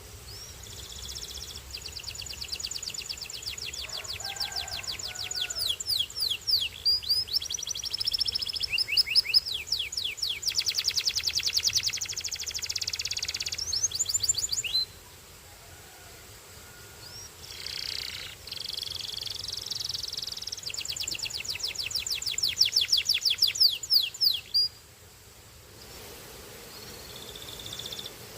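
Belgian canary singing: long runs of rapid repeated trill notes, some sweeping down in pitch. The song breaks off for a second or two about halfway through and again near the end.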